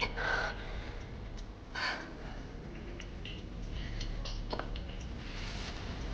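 A woman breathing hard, with two sharp gasping breaths, one just after the start and one about two seconds in, and a few faint clicks, as she forces down drink after drink.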